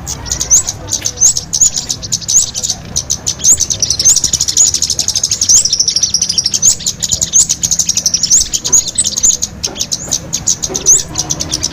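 Small birds twittering fast and high, a dense stream of chirps broken about once a second by short rising whistles. This is a lure call (pikat) played to draw small birds in.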